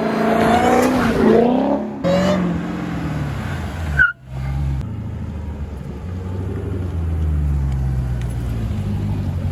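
Dodge SRT Hellcat's supercharged 6.2 L V8 accelerating, its pitch rising over the first two seconds. About four seconds in there is a brief high chirp and an abrupt break, after which the engine runs steadily at low revs with a slow rise and fall in pitch.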